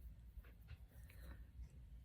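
Near silence, with a few faint light ticks of paper and string being handled while doubled string is threaded through a punched hole in journal pages.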